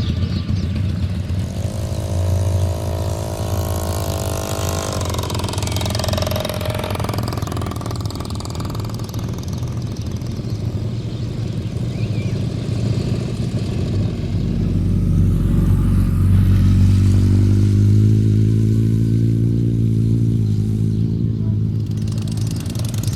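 Motorcycle engines running: one engine note climbs in pitch about four seconds in, and a louder, deeper engine runs through the second half.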